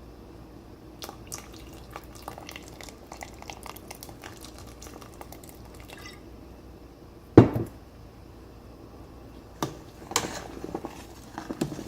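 A pot of curry broth at a light boil crackles and bubbles, with liquid dripping and pouring into it as fish sauce is added. A sharp clank of metal or glass on the pot comes about seven seconds in, and two more knocks follow near the end.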